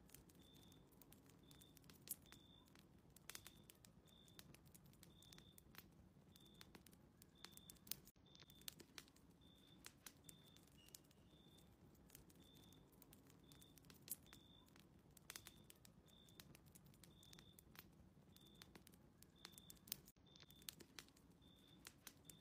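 Faint crackling of a wood fire in a fireplace: scattered sharp pops and clicks over a low hiss.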